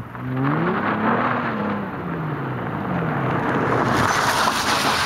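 Mitsubishi Eclipse GT's 3.8-litre V6 with a washer-modded exhaust, driving under throttle: the engine note rises for about a second, then falls away, and a rush of engine and tyre noise swells as the car comes towards the camera near the end.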